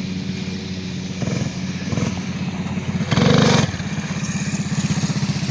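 Coleman CT 200 minibike's small single-cylinder four-stroke engine running as it is ridden, its pitch and level shifting with the throttle, with a loud rush of noise for about half a second about three seconds in.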